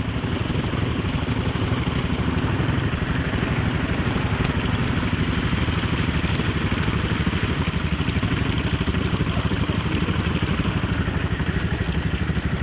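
Kymco Maxxer 300 quad's engine running steadily at an even speed, with a fast, regular pulse to its note.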